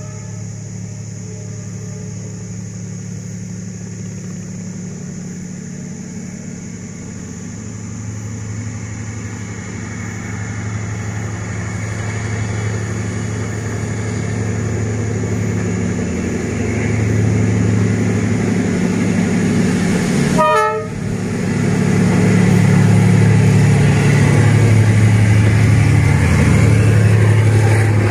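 D19E diesel-electric locomotive running with a steady low engine drone that grows louder as it approaches, hauling a passenger train. A short horn note sounds at the very start, and there is a momentary break in the sound about two-thirds through.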